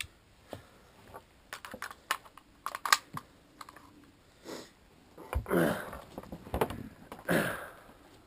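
Small sharp metallic clicks of a cartridge being pressed into a rifle magazine, followed from about halfway through by a few louder scraping, sliding sounds of the magazine and the rifle's action being handled.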